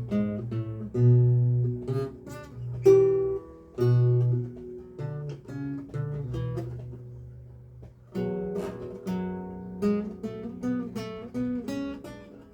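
A lute playing a recercar: plucked single notes and chords. In the middle a chord is left to ring and die away for a few seconds, then quicker running notes pick up about eight seconds in.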